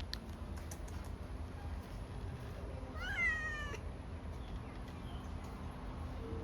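A cat meows once, about three seconds in: a single short call that rises and then falls in pitch. It sits over a steady low background rumble.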